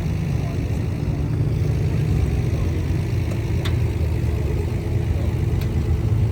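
Car engine idling steadily, a low even rumble, with a couple of faint clicks.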